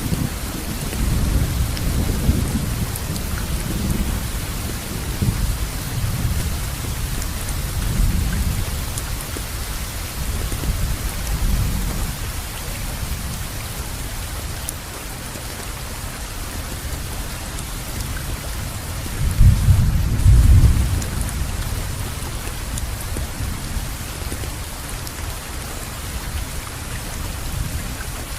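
Steady rainfall with low rumbles of thunder rolling in and fading several times, the loudest about twenty seconds in.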